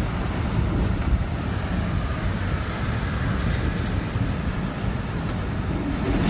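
Hurricane-force wind blowing steadily, with heavy wind buffeting on the microphone.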